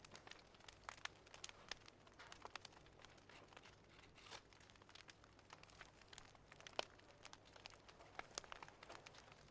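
Faint crackling of a wood fire: irregular small pops and snaps over a soft hiss, with one sharper snap about seven seconds in.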